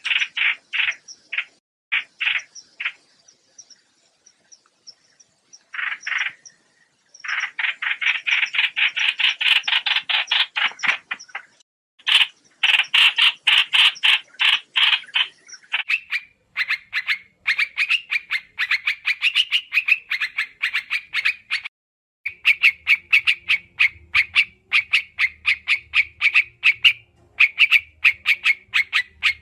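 Trao trảo bird calls played as a trapping lure: bursts of rapid, harsh chattering notes, with a gap of a few seconds early on, then a steadier fast run of repeated notes through the second half.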